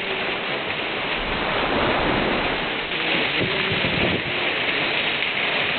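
Heavy rain pouring down in a steady dense hiss. A low rumble rises under it about a second in and again briefly past the middle.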